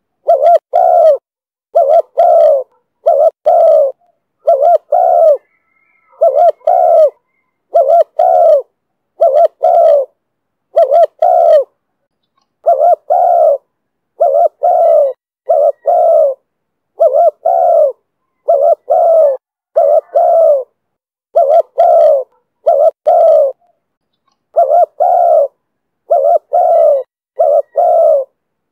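Spotted dove cooing over and over in the voice Vietnamese dove keepers call 'thổ thúc bổi'. The low coos come in short clusters about once a second, with brief pauses now and then.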